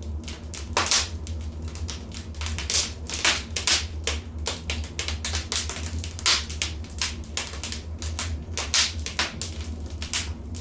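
Wood fire crackling in a fireplace: irregular pops and snaps, several a second, over a steady low rumble.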